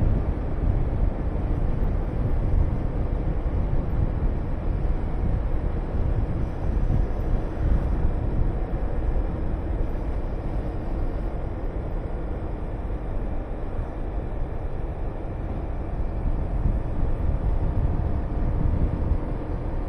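Honda VTR250 V-twin motorcycle engine running steadily on the move, mixed with wind rushing over the camera microphone. The sound eases slightly past the middle, then picks up again near the end.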